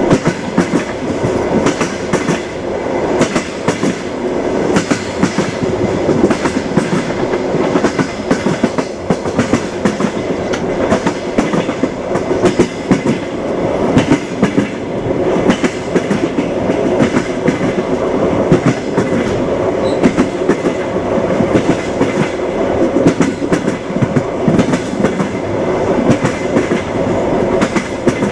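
Railway carriage on the move: steady rumble with the clickety-clack of train wheels striking rail joints, the knocks coming irregularly throughout.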